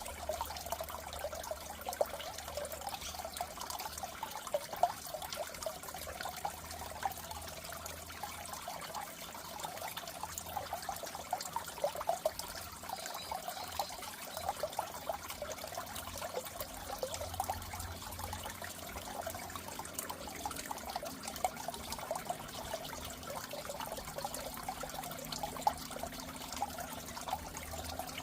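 Steady trickling and bubbling water in a goldfish tank, a dense run of small splashes, with a faint low hum that comes and goes.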